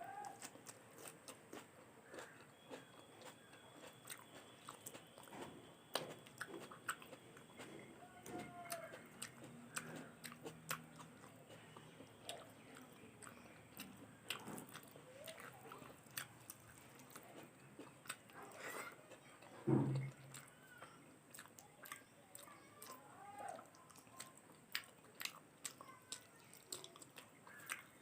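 Close-miked mouth sounds of a person chewing food, with many small wet clicks and smacks. About twenty seconds in there is one louder, low throat sound.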